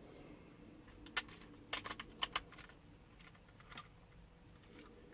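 Small screws being handled and fitted into the plastic body of a mini radio-control toy tank: a handful of sharp little clicks and taps, most of them in the first half.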